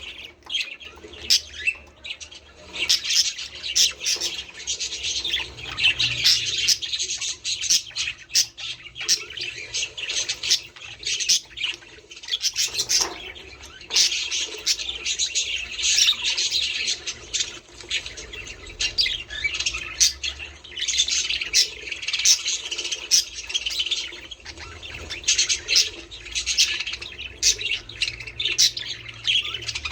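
A flock of budgerigars chattering, with a constant stream of quick chirps, warbles and sharp squawks overlapping one another.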